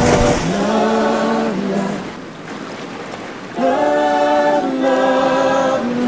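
Wordless vocal music: choir-like voices holding long, sustained notes. The voices drop back about two seconds in and swell again about a second and a half later.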